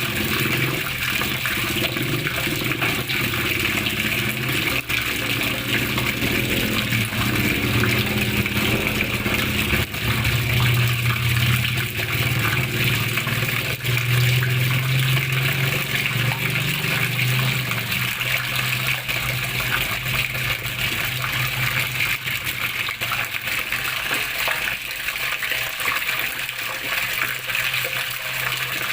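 Flowing water running and splashing steadily, a continuous rushing with a low rumble underneath that grows fuller about halfway through.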